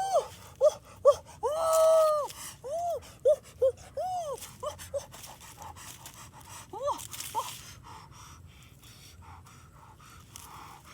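A voice giving a string of short calls, each rising and falling in pitch, with one longer call about two seconds in. The calls thin out after about five seconds and two more come around seven seconds.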